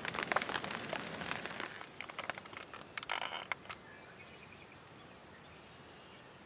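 Close rustling and crackling for about the first two seconds, a short rustle around three seconds in, then a quiet outdoor background with a faint bird chirp.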